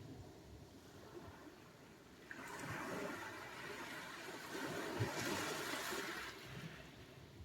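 Sea surf on the shore: a low wash, then a wave breaks a little over two seconds in. Its foaming rush grows brighter and hissier and fades again after about four seconds.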